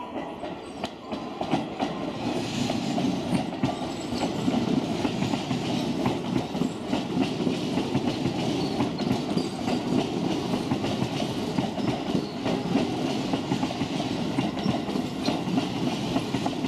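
Keio 8000-series electric train rolling slowly past at close range, wheels clacking over rail joints and points. It grows louder over the first couple of seconds as it draws near, then runs on steadily.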